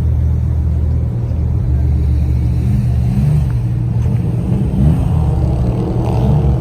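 Car engine rumbling loudly, with its pitch rising and falling in the second half as it is revved.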